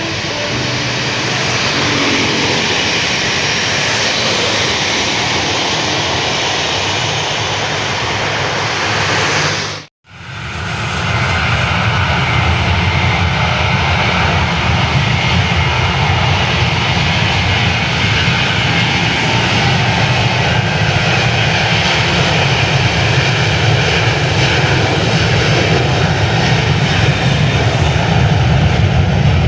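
Airliner engines running loud and steady, broken by an abrupt cut to silence about ten seconds in, after which the engine noise comes back louder and deeper.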